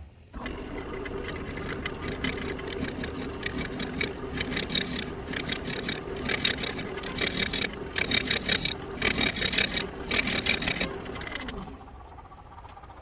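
Wood lathe spinning an irregular walnut blank while a turning tool cuts it in repeated rough bursts, an interrupted cut on an out-of-round piece. The cutting stops about a second and a half before the end, leaving the lathe running.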